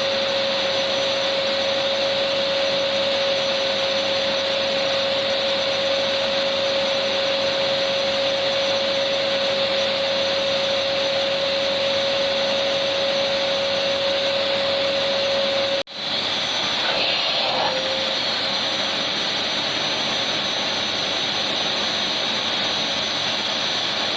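Vacuum cleaner motor running steadily, a constant rushing noise with a steady whine. About 16 seconds in, the sound cuts out for an instant and resumes without the whine.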